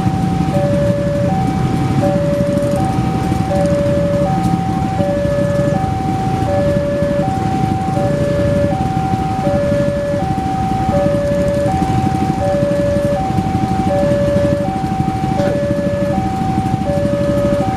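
Railway level-crossing warning alarm sounding continuously, two tones alternating, each held about three-quarters of a second, over steady road-traffic rumble.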